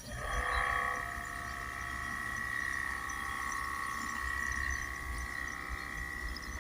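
Compressed-air spray gun hissing with a steady high whistle as it pushes DPF cleaning fluid into the diesel particulate filter through its inlet pressure hose. The whistle starts suddenly and holds steady.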